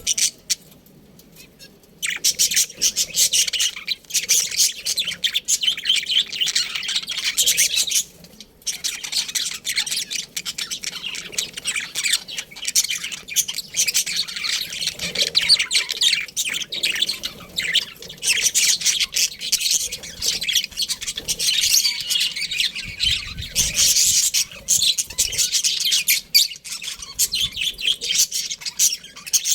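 A colony of budgerigars chirping in a dense, rapid chatter. It starts about two seconds in after a quiet moment and has a brief lull near a third of the way through.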